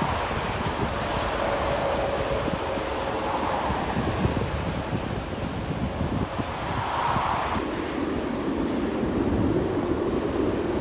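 Aircraft engine noise mixed with wind buffeting the microphone, with a faint tone gliding slowly downward in the first few seconds; the sound changes abruptly about seven and a half seconds in.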